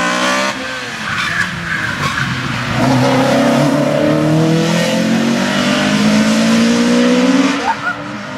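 Rally car engine at race speed: the revs fall briefly as the car slows for a bend, then climb steadily for several seconds as it accelerates hard out of the corner, dropping away near the end.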